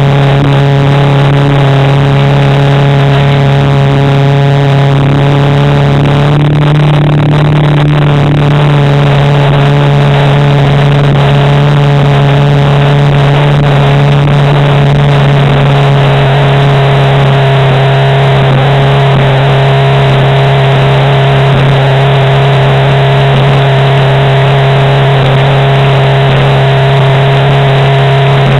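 Jet ski engine running steadily at a constant pitch, with a hiss of water and wind under it. The engine note shifts slightly about six seconds in.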